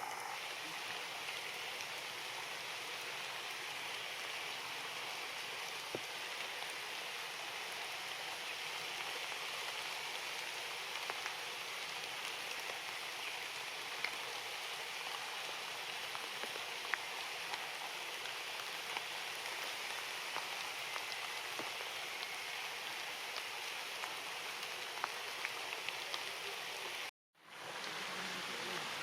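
Steady rain falling, with scattered faint drip ticks. The sound cuts out for about half a second near the end.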